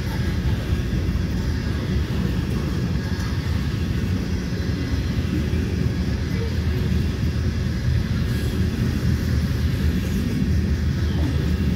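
Covered hopper cars of a freight train rolling past close by: a steady low rumble of steel wheels on rail.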